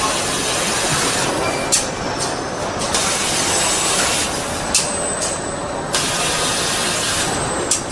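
Car assembly plant machinery: a steady mechanical din with hissing that switches on and off and a few sharp clicks.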